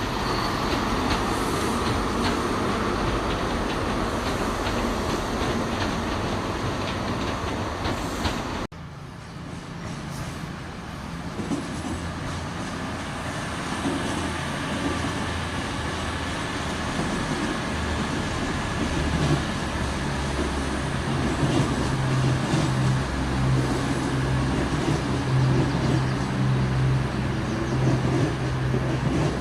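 A train moving along the track, then after an abrupt cut a diesel engine running, its low steady note growing louder in the last ten seconds.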